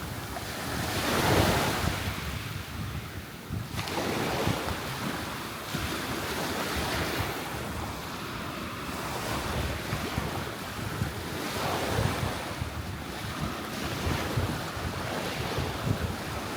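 Surf breaking and washing onto the beach, with wind buffeting the microphone; one wave swells loudest about a second in.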